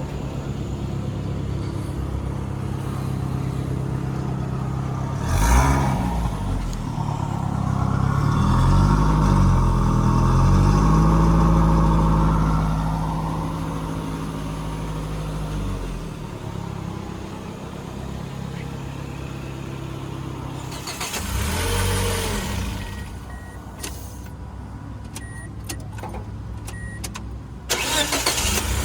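Freshly rebuilt Toyota 1TR four-cylinder petrol engine running at idle, revved up and back down between about eight and sixteen seconds in.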